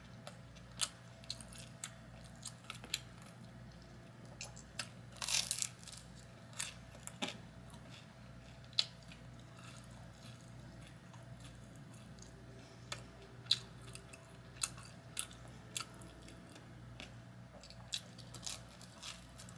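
A person chewing and biting food close to the microphone: scattered sharp crunches and mouth clicks, with a denser run of crunching about five seconds in.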